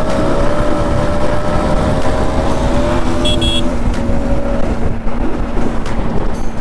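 Yamaha MT-15 v2's 155 cc single-cylinder engine running at road speed under heavy wind buffeting on the microphone, its note holding steady and then easing slightly. A short double high beep sounds about three seconds in.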